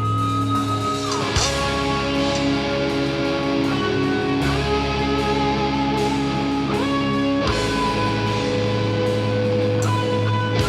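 A heavy metal band playing live. Electric guitars hold long notes over bass notes that change every few seconds, with sliding pitch changes between some of the notes.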